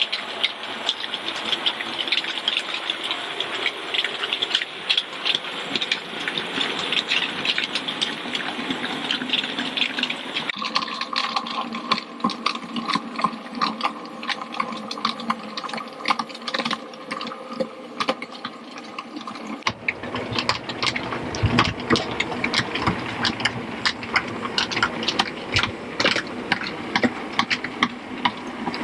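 Model trains running on a layout: the steady whirr of small locomotive motors under a dense clicking and rattling of wheels on track. The sound changes abruptly twice, about ten and twenty seconds in, as one running scene gives way to another.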